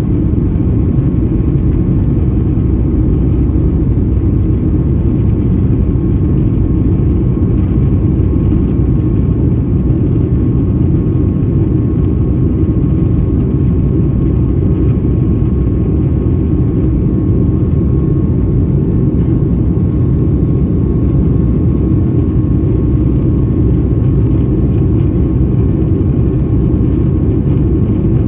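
Steady cabin noise of a Boeing 757-200 in flight: a deep, even rumble of engines and airflow with a faint steady tone above it.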